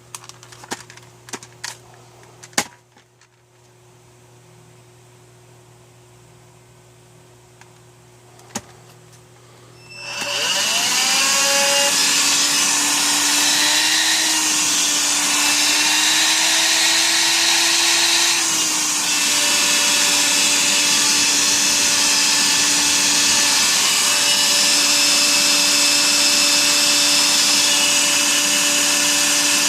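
A few clicks, then about ten seconds in the Electrolux ZB3011 18V cordless stick vacuum's motor is switched on. Its whine rises as it spins up, and it then runs steadily on its newly refilled lithium battery pack.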